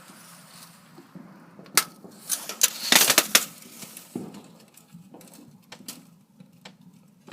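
A series of irregular sharp clicks and pops, with the loudest cluster about three seconds in and fainter single ones after it.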